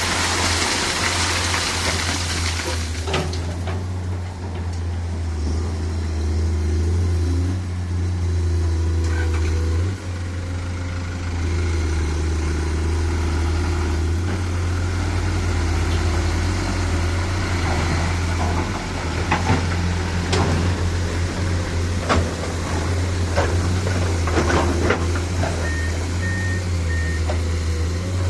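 Dump truck's diesel engine running steadily with a deep, even hum, with a loud hiss in the first three seconds and a few light clicks later on.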